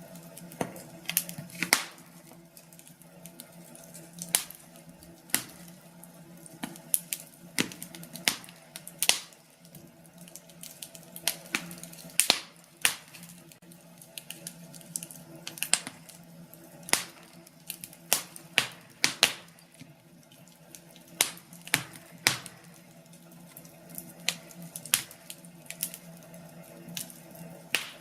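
Wood fire burning in a fireplace, crackling with sharp, irregular pops and snaps, one or two a second, over a low steady hum.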